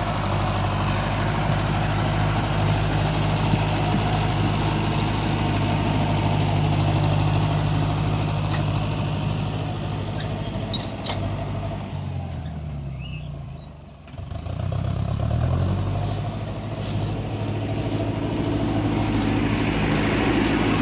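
Kubota M6040 tractor's diesel engine running steadily under load. About twelve seconds in it revs down and drops off, then revs back up and runs on.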